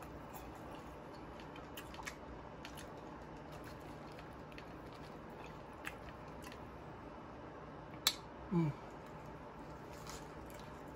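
Close-miked mouth sounds of eating fries and a chicken sandwich: faint chewing and lip smacks, with a sharp click about eight seconds in followed by a short hum of the voice.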